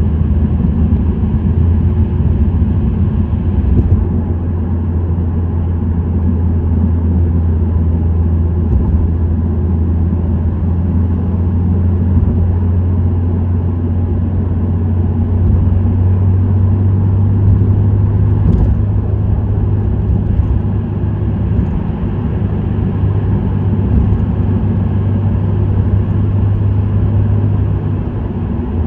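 Subaru WRX STI (VAB) with an STI Performance muffler cruising, its turbocharged flat-four giving a steady low exhaust drone over road noise. The engine note rises a little about a third of the way in and settles back down near the end.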